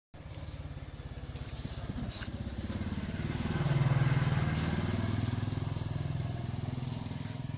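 A small engine running with a fast, even pulse, growing louder to about four seconds in and then easing off.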